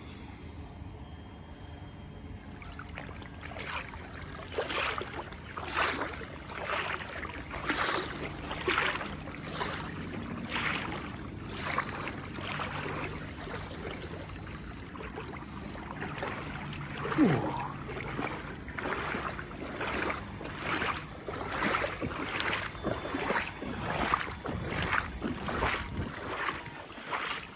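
Legs wading through knee-deep floodwater, a splash and swish of water with each stride about once a second, starting a few seconds in. A short falling tone cuts through about two-thirds of the way in.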